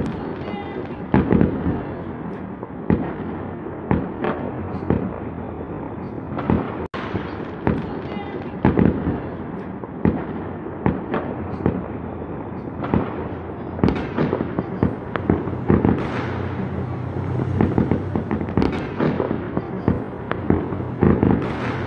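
Fireworks going off in quick succession: many sharp bangs and pops over a continuous crackle, with no real pause.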